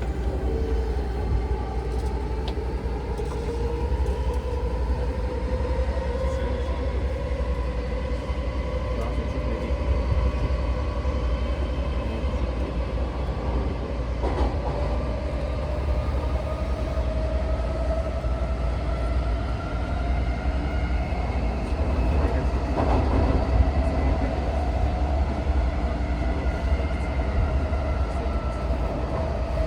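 Running sound of an Odakyu 4000-series electric train heard from inside the car in the subway tunnel: a steady rumble of wheels on rail, with a traction-motor whine that slowly rises in pitch and a few clicks from the track.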